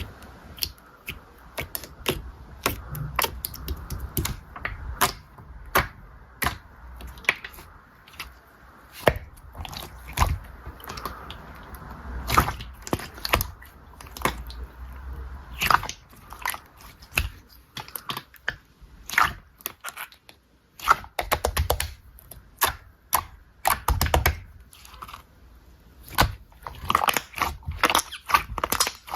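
Slime being squished, stretched and folded by hand, giving irregular wet clicks and small pops with soft low squelches under them.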